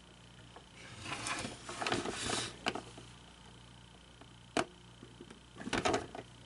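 Hands handling a plastic animated singing figure: rustling and scraping for a second or two, then a sharp click about halfway through and a last short rustle near the end, over a faint steady hum.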